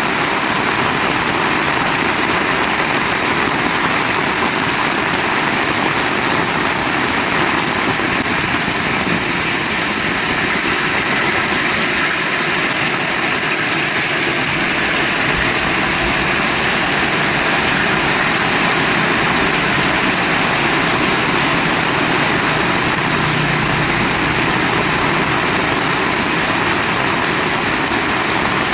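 Heavy rain pouring steadily, a dense even hiss with no break. A low rumble joins about halfway through.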